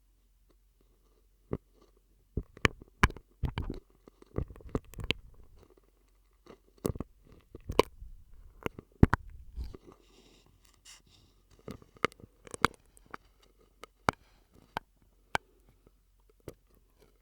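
ASMR mouth sounds made through a drinking straw into a close microphone: wet clicks, pops and smacks in irregular clusters, thinning out to scattered clicks toward the end.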